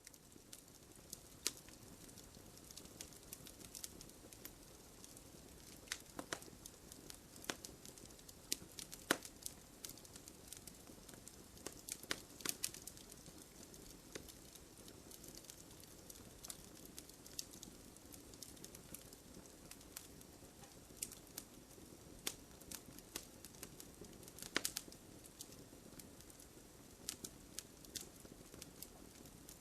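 Wood bonfire burning, crackling with irregular sharp pops and snaps over a soft steady rush of flame.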